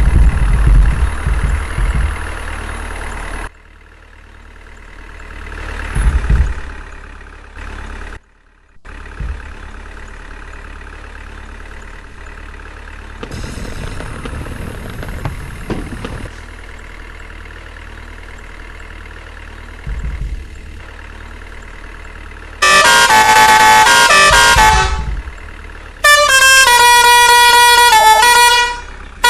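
A truck's engine runs with a low rumble. Near the end, a musical air horn sounds two long, loud blasts, each a multi-note tune that steps up and down in pitch.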